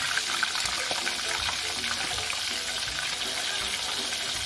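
Catfish pieces deep-frying in hot oil in a wok, being fried until crisp: a steady sizzle full of small crackling pops. A metal spatula stirs through the fish near the end.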